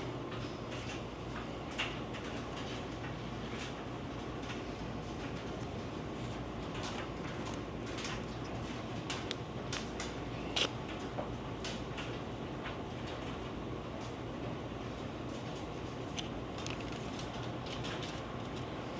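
Steady low machine hum with scattered light clicks and knocks of things being handled, the sharpest knock about halfway through.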